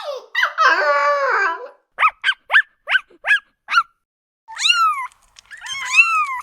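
A dog whining and yelping in high-pitched short yips, about six in a quick run. Then a cat meows twice in long calls that rise and fall, starting about four and a half seconds in.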